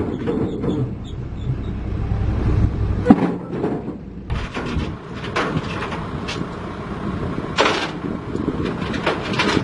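Heavy diesel machinery running with a low rumble that drops away about three seconds in, marked by a sharp metallic bang, followed by scattered metal clanks and knocks.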